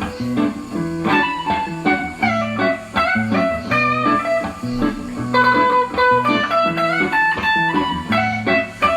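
Instrumental guitar music: a plucked melody runs over a repeating low bass figure.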